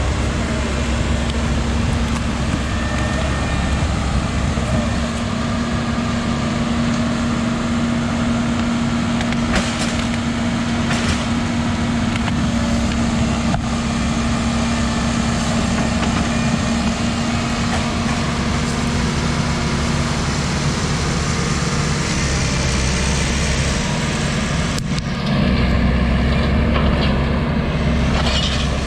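Heavy diesel machinery engine running steadily with a low rumble and a steady drone. Near the end it briefly dips, then comes back louder.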